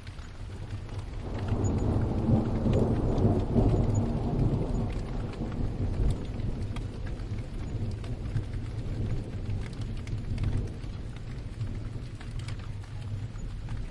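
Steady rain pattering, with a roll of distant thunder that swells about a second and a half in, peaks over the next few seconds and slowly dies away.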